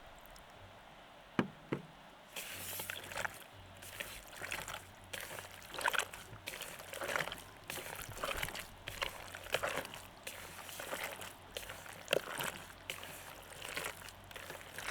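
Two sharp clicks, then water sloshing and splashing in repeated strokes, roughly one a second.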